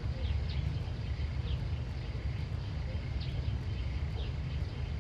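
Short high chirps from a small animal, repeating about once a second, over a steady low rumble.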